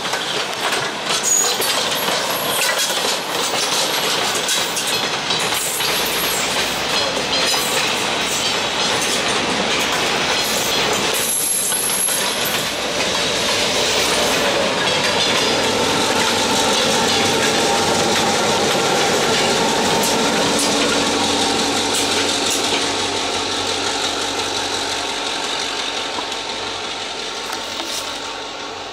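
Train rolling past, its wheels clicking over the rail joints with a steady running rumble that eases off over the last few seconds.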